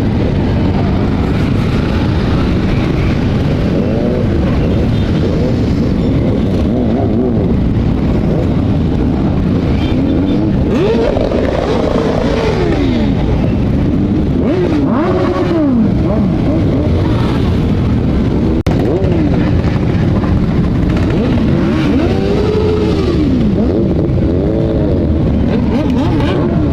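Motorcycle engines running over a steady low rumble, with revs rising and falling several times as bikes accelerate and ease off.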